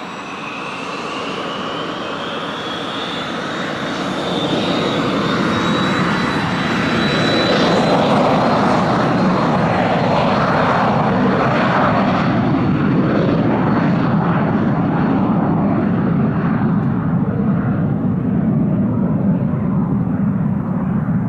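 Cessna Citation I/SP twin-turbofan business jet taking off. A high engine whine climbs in pitch over the first several seconds as the engines spool up, then a loud steady jet roar holds.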